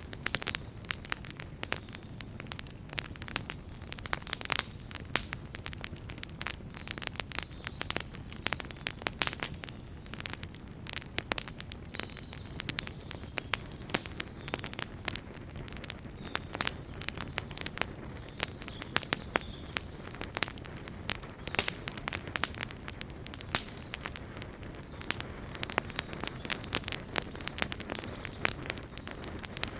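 Wood fire crackling and popping: dense, irregular snaps over a low rumble of burning.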